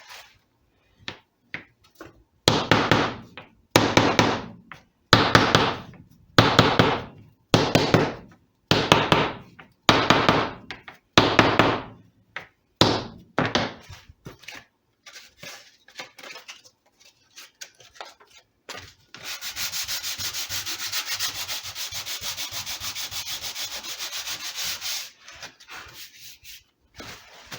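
Sanding a rosette inlay flush into a redwood guitar top with a wooden block. There are about eight long strokes a little over a second apart, then lighter, shorter strokes, then several seconds of fast, steady scrubbing. This works the rosette down into the sides of its channel.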